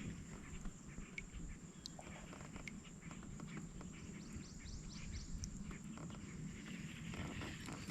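Faint outdoor natural ambience: scattered short bird chirps, with a run of quick chirps in the middle, a few small clicks, and a thin steady high tone over a low rumble.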